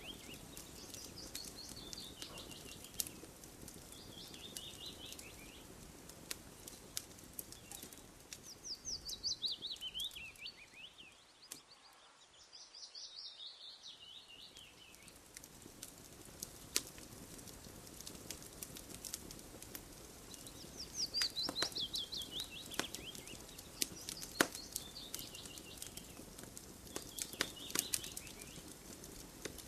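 Campfire crackling with scattered sharp pops over a low steady hiss, while a songbird repeatedly sings short trilled phrases that fall in pitch. The background noise drops away briefly around the middle.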